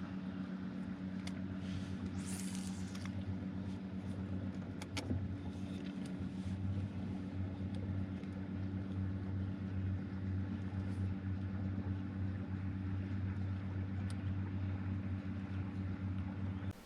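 Electric trolling motor running at a steady speed, a constant low hum.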